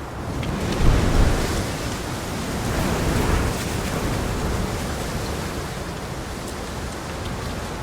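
Steady rainfall, a dense even hiss with a low rumble beneath. It swells louder about a second in and again around three seconds in.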